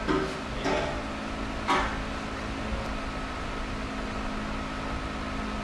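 Steady hum of a small motor or fan running, with three short knocks in the first two seconds.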